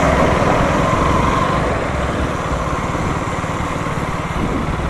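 KTM Duke 200's single-cylinder engine running steadily at low road speed, heard from the rider's seat as a low rumble of fast firing pulses with road and wind noise above it.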